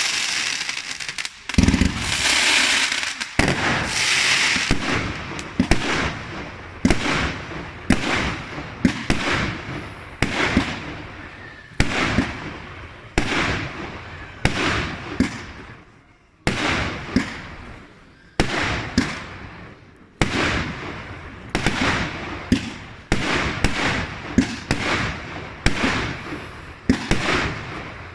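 Ready-to-fire fireworks cake set off from a single ignition point, firing shots in quick succession: sharp bangs about once or twice a second, each with a fading hiss after it. A dense hiss fills the first few seconds.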